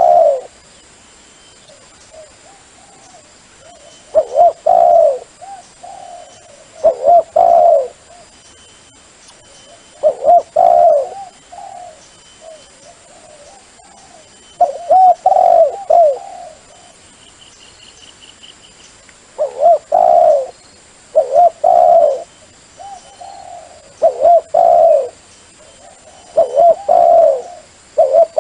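Dove cooing: bursts of a few quick low, rising-and-falling coo notes, repeated about every two to three seconds, with softer coos in between.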